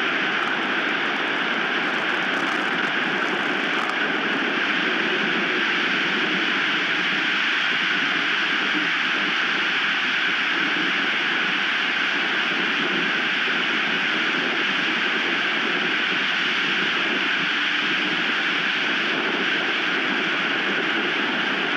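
Strong wind rushing steadily over an outdoor nest cam's microphone, a constant even roar with no breaks.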